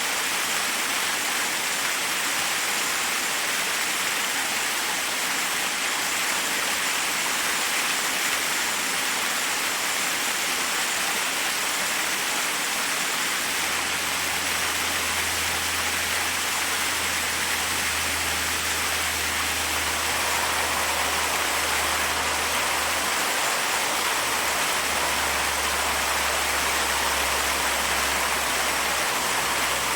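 Forest waterfall rushing, a steady, even rush of falling water over rocks. A low, steady rumble joins underneath about halfway through.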